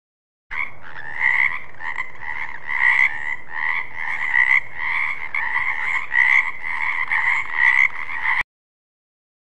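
A frog croaking in a quick, steady run of about three croaks a second, with louder croaks every second and a half or so. The recording starts abruptly and cuts off suddenly after about eight seconds.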